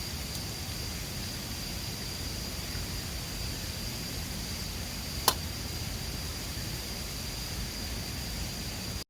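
Mountain river water rushing steadily, with a thin steady high tone over it and one sharp pop from the campfire about five seconds in. The sound cuts off suddenly just at the end.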